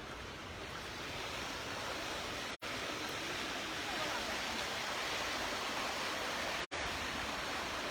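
Steady rush of rainwater flowing through a street drain, broken twice by very short dropouts in the sound.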